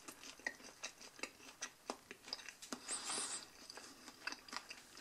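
Faint chewing of a McDonald's chicken nugget: soft, irregular mouth clicks and smacks, with a brief hiss about three seconds in.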